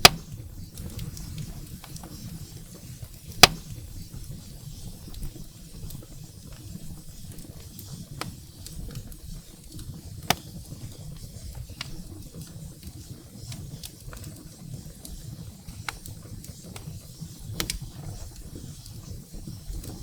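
Firewood burning in a fireplace: a low steady rumble of flames with scattered small crackles and a few sharp pops, the loudest right at the start and about three seconds in.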